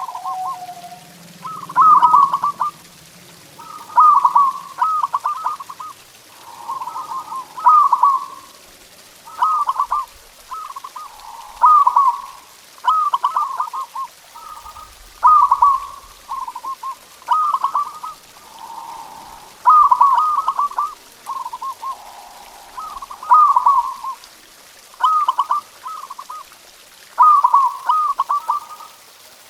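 Zebra dove (perkutut) cooing: short phrases of quick, trilled notes around the same pitch, repeated about every two seconds, with softer, lower notes between them.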